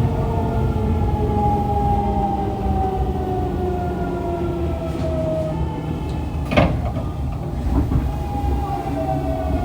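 Fukuoka City Subway 2000-series train's Hitachi GTO-VVVF inverter and traction motors whining in several parallel tones that fall slowly in pitch as the train slows for a station, over a steady rumble of wheels on rail. A single sharp clack comes about two-thirds of the way through.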